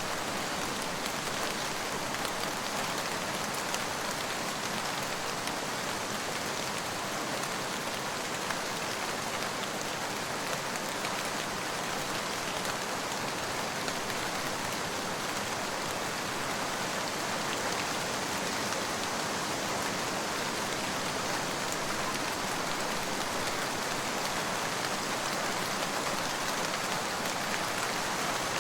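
Steady, heavy rain falling on a surface, a dense even hiss with fine pattering drops throughout.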